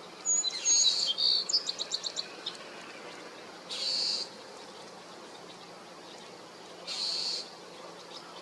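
Northern mockingbird calling: a quick run of clear, high notes, then two short harsh, rasping calls about three seconds apart, the scolding call it gives when harassing a hawk.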